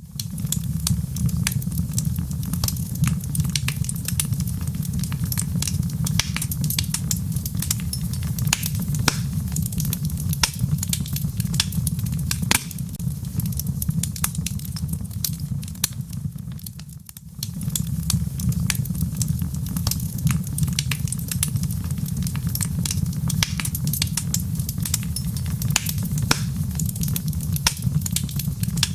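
Wood fire burning in a fireplace: dense irregular crackles and sharp pops over a steady low rumble. The level dips briefly a little past halfway, then picks up again.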